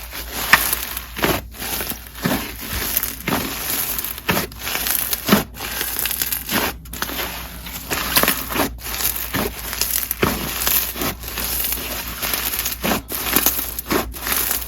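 Crunchy snow fizz slime being squeezed and kneaded by hand: dense crackling with repeated sharp crunches, one after another.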